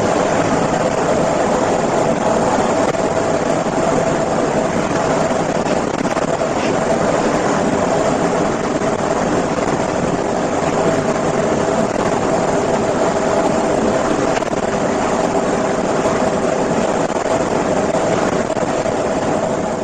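Steady engine and road drone of a truck driving on a motorway, heard from inside its cab, with a constant hum running through it.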